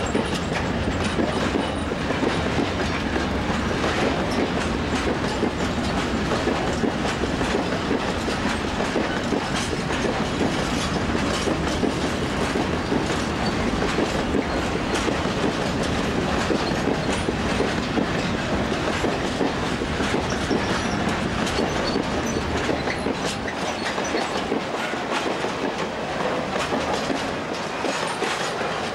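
Freight train of covered sliding-wall wagons rolling past, the wheels clicking over the rail joints in a steady clickety-clack over a continuous rumble. The deep rumble eases off in the last few seconds.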